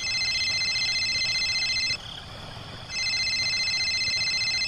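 An electronic beeper sounding a high, steady tone twice, each about two seconds long with a second's gap between.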